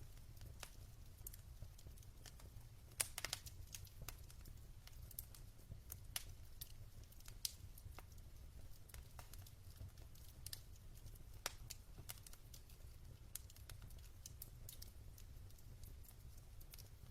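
Wood logs burning in a fireplace: faint, irregular crackles and pops over a low, steady rumble. The loudest cluster of pops comes about three seconds in.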